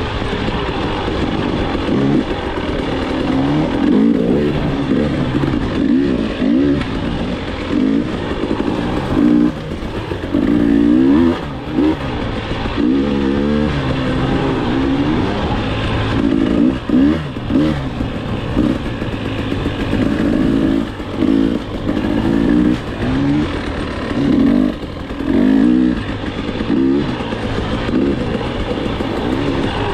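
KTM enduro dirt bike engine, revving up and down over and over as the throttle is opened and rolled off, with short drops in loudness between the pulls.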